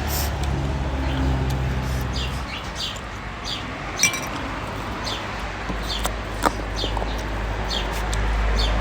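Short, repeated bird chirps, each a quick downward sweep, coming about once or twice a second over a steady low hum. Two sharp clinks, like tableware, stand out: one about halfway through and one later.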